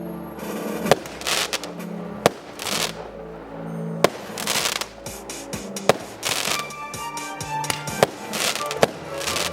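Aerial fireworks bursting: about six sharp bangs a second or two apart, with hissing washes between them, over music playing.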